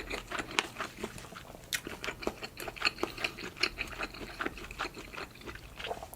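Close-miked chewing of a mouthful of sausage and rice: irregular wet clicks and smacks of the mouth, several a second.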